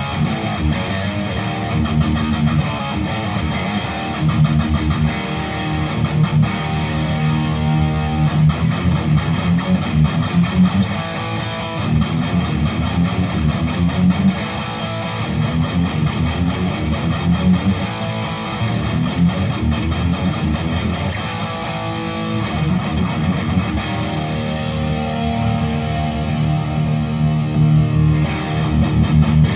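Electric guitar with P90 pickups played through a Tech21 SansAmp GT2 amp-simulator pedal into a Laney amp. It plays continuous single-note lines and chords in the pedal's driven tone.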